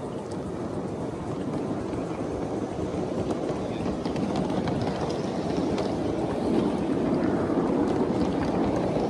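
Ride-on 7½-inch gauge miniature train rolling along the track: a steady rumble of wheels on rail with a few faint clicks, growing louder.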